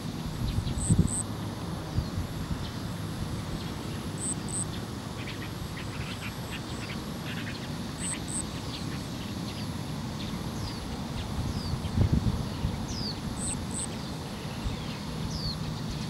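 Small birds calling: a high double chirp four times, short falling whistles, and a short run of scratchy chattering notes in the middle, over a steady low wind rumble on the microphone.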